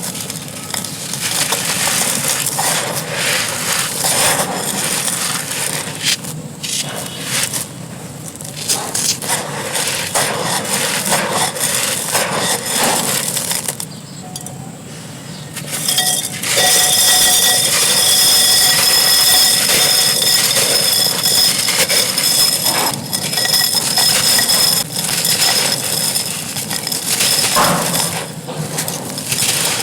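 Dry clay being crumbled: gritty, brittle crunching and crackling of breaking fragments. It turns denser and louder about halfway in.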